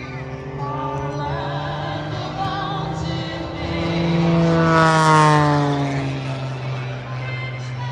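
A propeller-driven aircraft flies past, loudest about five seconds in, its engine note dropping in pitch as it passes. Music with a singing voice plays over it.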